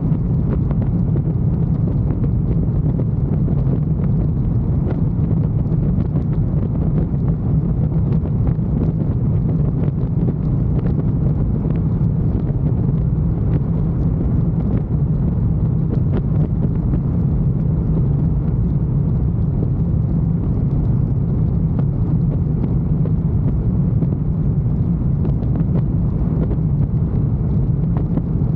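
Motorcycle engine running at a steady cruise with a low, even note, and wind rushing over the microphone.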